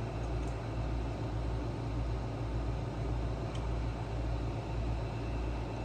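Steady low machine hum with an even hiss and a soft pulsing rumble, broken only by a couple of faint clicks.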